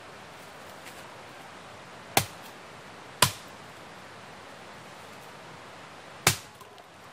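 Three sharp knocks over a steady hiss: two about a second apart, then a third some three seconds later, each dying away quickly.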